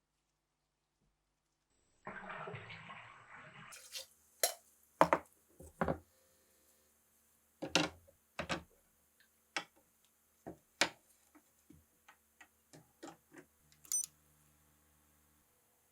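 A brief rustling hiss, then a series of sharp, irregularly spaced clicks and knocks of hard objects being handled.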